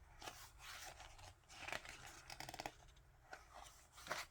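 Pages of an album photo book being turned and handled: a series of short paper rustles and swishes.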